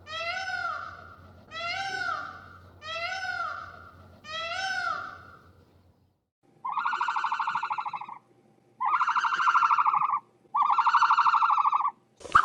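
Animal calls: a run of short cries that rise and fall in pitch, about one every second and a half, then three longer, buzzy, pulsing calls.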